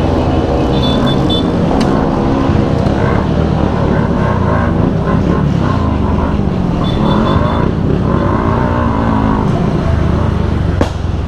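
Motorcycle engines running on the move, their pitch rising and falling as the riders open and close the throttle.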